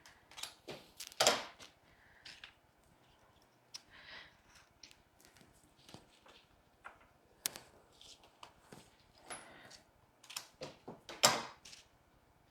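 Irregular light clicks, snaps and rustles of flower stems and evergreen foliage being handled while roses are set into a Christmas arrangement, with the loudest rustles about a second in and near the end.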